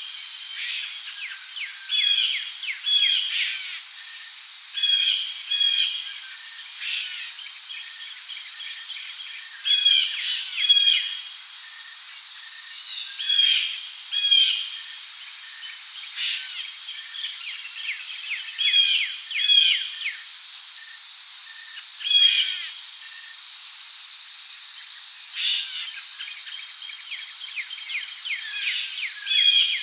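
Rainforest ambience: a steady high drone of crickets and other insects, with birds calling in short bursts of chirps every two or three seconds.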